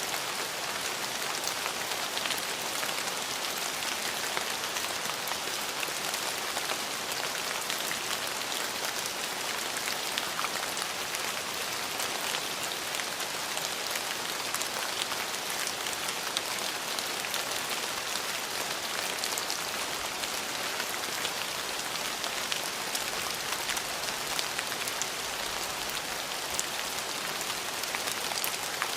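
Steady rain falling, a dense even hiss with many small drop ticks pattering on surfaces.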